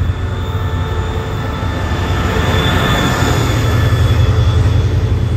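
A State Railway of Thailand passenger train rolling past close by, its deep rumble growing louder toward the end. A thin steady high whine sits above the rumble.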